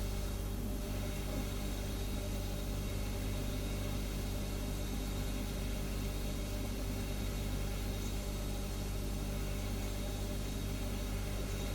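Refrigerator humming steadily: a constant low hum with an even hiss over it.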